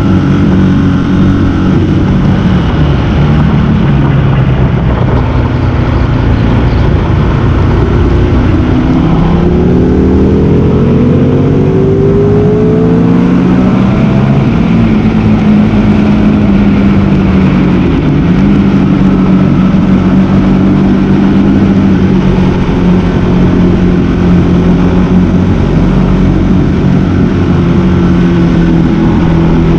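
A sport motorcycle engine running hard around a race circuit. Its pitch climbs through the gears from about 9 to 14 seconds in, then holds a steady drone.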